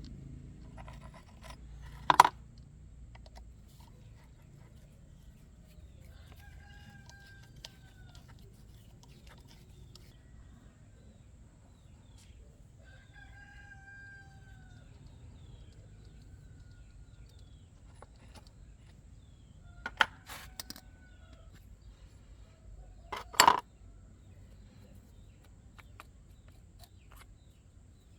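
Rooster crowing several times, long arched calls a few seconds apart, over a faint low rumble. Three loud, sharp knocks break in, louder than the crowing.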